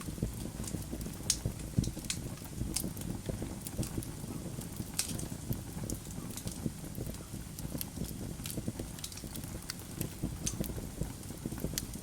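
Wood fire burning in a fireplace, with a steady low rumble and irregular sharp crackles and pops from the logs, a few louder snaps scattered through.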